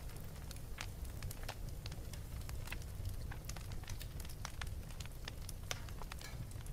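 Wood fire crackling in a fireplace: irregular pops and snaps, several a second, over a steady low rumble.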